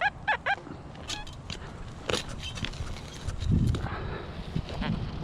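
Digging out a metal detector target in trashy ground: sharp knocks of the digging tool, the loudest about two seconds in, then dirt scraping and shifting around the middle. A few short falling chirps come at the very start.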